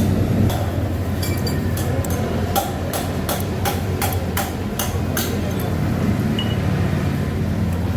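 A run of sharp metallic taps and clicks from hand tools on the scooter's throttle body, about three a second for some four seconds, over a steady low rumble.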